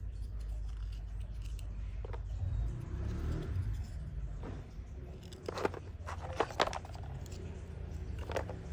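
Small hard pieces of agarwood clicking and scraping against one another as they are handled, with a handful of sharp clicks, the loudest about six and a half seconds in, over a low steady rumble.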